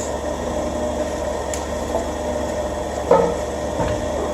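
Forklift engine idling steadily, with a brief clunk about three seconds in.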